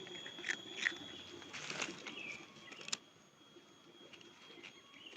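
Cat crunching onion crackers: a few crisp crunches in the first three seconds, then quieter chewing.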